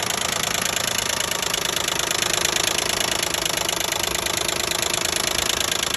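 2012 Nissan Maxima's 3.5-litre V6 engine running with a steady, noisy rattling clatter, which the owner puts down to a faulty intake camshaft sprocket.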